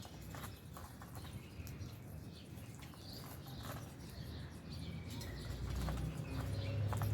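Aviary flock of lovebirds and budgerigars chirping in short, scattered calls, with a low rumble building up over the last couple of seconds.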